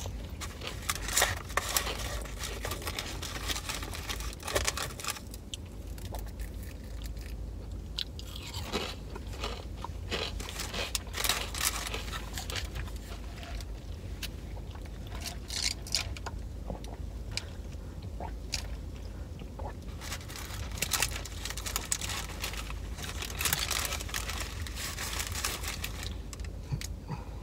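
A person chewing and crunching fries close to the microphone: clusters of crisp crackles and clicks, with quieter stretches between. A steady low hum runs underneath.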